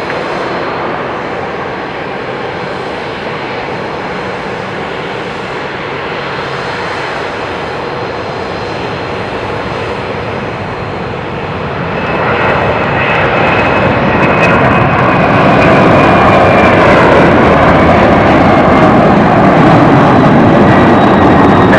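Boeing 767-300ER's twin jet engines at takeoff power, a steady loud rumble. About twelve seconds in it grows louder, with a high whine that slowly drops in pitch.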